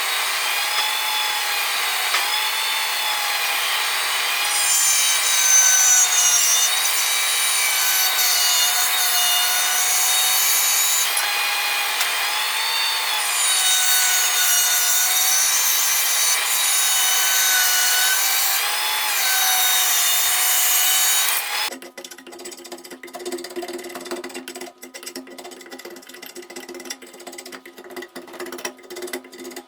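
A power tool running under load, its whine dipping and rising every couple of seconds as it works the material. It cuts off abruptly about 22 seconds in, leaving a much quieter low hum with scattered clicks.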